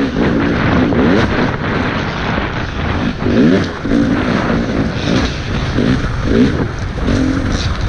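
Dirt bike engine repeatedly revving up and dropping back as the rider works the throttle and gears through the course, heard from a helmet-mounted camera over steady wind and track noise.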